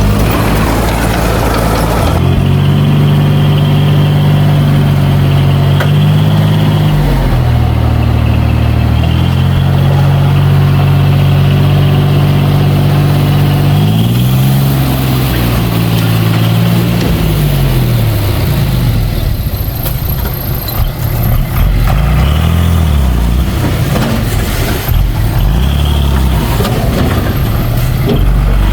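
Heavy earthmoving machine's diesel engine working under load, its revs stepping up and down and rising and falling again about halfway through.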